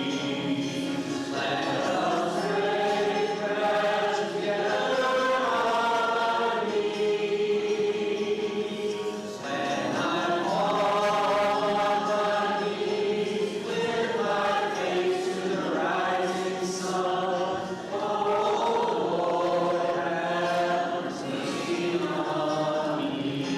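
A group of voices singing a slow hymn together in long held phrases, pausing briefly about every eight seconds.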